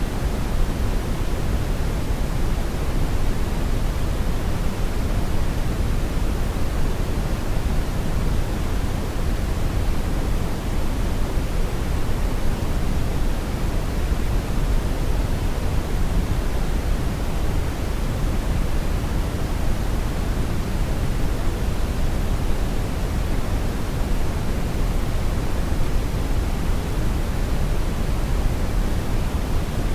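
Brown noise: a steady, even rushing hiss weighted heavily toward the bass, with no changes or events.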